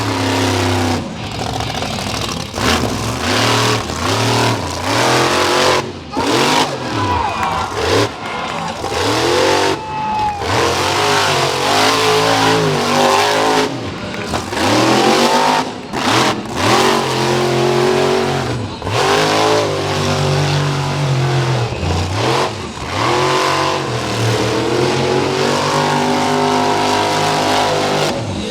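Monster truck engine revving hard again and again, its pitch sweeping up and down every second or two, with brief sudden cuts as the throttle is chopped.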